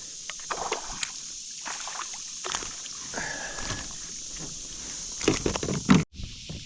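Water splashing and sloshing beside a kayak as a hooked bass is played at the boat, in short irregular splashes that get louder about five seconds in, over a steady high hiss of insects.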